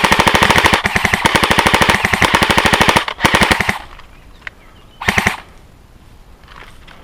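Airsoft gun firing on full-auto: a long rapid burst of shots with a mechanical whine, a brief break just under a second in, and the burst ending about three seconds in. Two short bursts follow, one about three seconds in and one about five seconds in.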